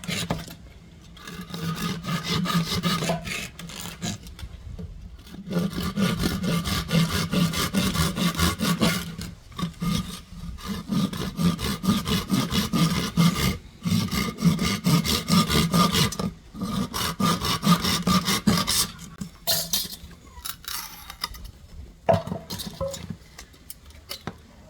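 Bamboo being sawn by hand, in runs of quick rasping strokes that pause every few seconds. The sawing stops a little before the end, leaving a few scattered knocks.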